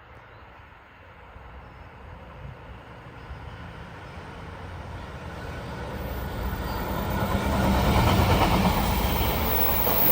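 Diesel-hauled freight train approaching, its locomotive engine and the rumble of the wheels on the rails growing steadily louder, loudest about eight seconds in.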